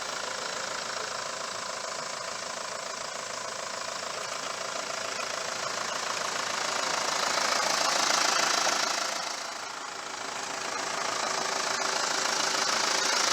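Mitsubishi Fuso FE145's 4.9-litre turbo diesel idling steadily, growing louder about eight seconds in, dipping briefly, then rising again.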